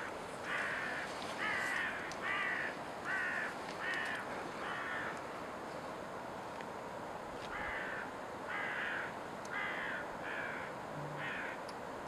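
A bird calling in two series of short calls, six and then five, a little under one a second, over a steady background hiss.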